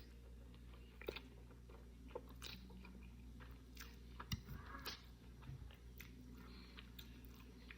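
Faint close-up chewing and biting, with scattered small crunches and mouth clicks, as someone eats pasta with sardines topped with crunchy shoestring potato sticks.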